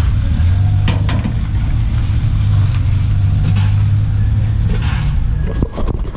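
Steady low mechanical hum over a rumbling background, starting about half a second in and stopping about a second before the end. A few sharp clicks come early, and a cluster of knocks comes near the end.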